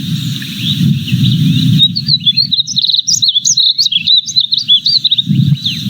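Small songbirds chirping and twittering in quick, high notes from about two seconds in, over a steady low rumble.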